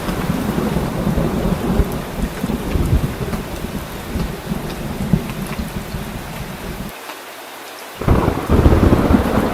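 Heavy rain with a continuous, uneven thunder rumble underneath. Near the end the low rumble drops out for about a second, then comes back louder.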